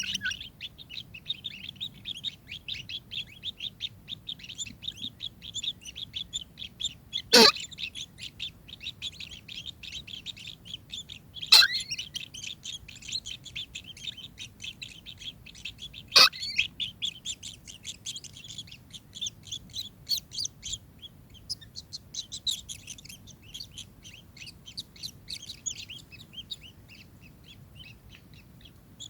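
Kingfisher calling: a rapid, high chattering that runs on, broken by three loud, sharp calls about seven, eleven and sixteen seconds in.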